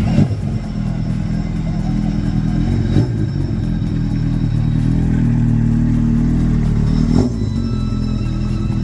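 A vehicle engine running steadily, its pitch rising slowly over several seconds. A few short knocks are heard, at about three seconds and again near the end.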